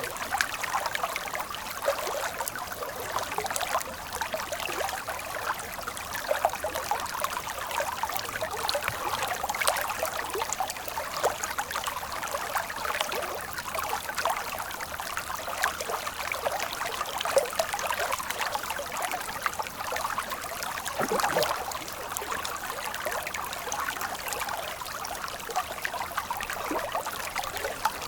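Stream water trickling and gurgling steadily, full of small splashes, with one deeper gurgle about two-thirds of the way through.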